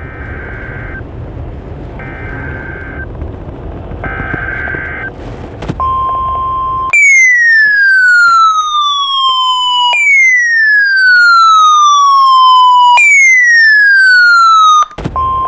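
NOAA Weather Radio alert over a hissy radio signal: three short bursts of the SAME digital header, then a brief steady 1050 Hz warning tone. Next come three loud falling electronic siren sweeps of about three seconds each, and the steady tone returns near the end.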